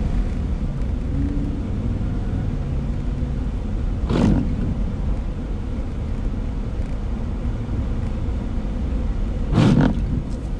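A car driving on a sleet- and slush-covered road, heard from inside the cabin: a steady low rumble of engine and tyre noise. Two brief louder bursts stand out, one about four seconds in and one near the end.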